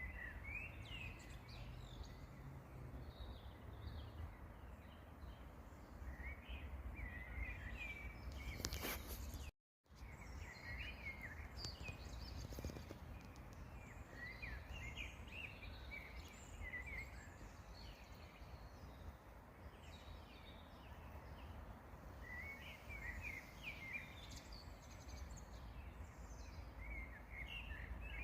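Songbirds chirping in scattered bursts of short, high notes over a faint, steady low rumble. The sound cuts out completely for a moment about nine and a half seconds in.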